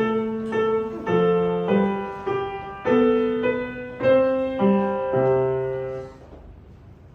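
Piano played in chords, each note struck and fading, in a steady rhythm; a final chord is held and stops about six seconds in, leaving quiet room noise.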